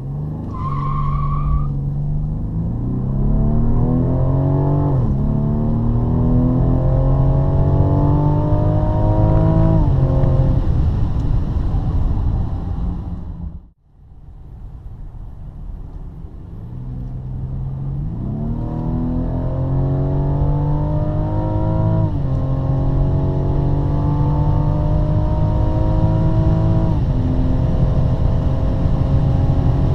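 Rolls-Royce Wraith's twin-turbo V12 at full-throttle acceleration, its pitch climbing steadily and dropping at each automatic upshift. There is a brief wavering high tone at the start. The engine sound cuts out almost completely about halfway through, then builds again through further upshifts.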